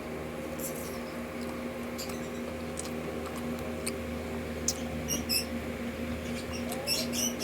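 Close mouth sounds of chewing crispy battered fried chicken intestines: soft crackles and wet clicks, coming in clusters about five seconds in and again near the end, over a steady low hum.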